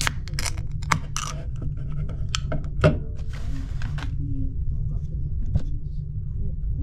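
Steady low rumble of a large car ferry's engines heard from inside the ship, with a few scattered knocks and clicks, a sharper knock about three seconds in and a short hiss just after it.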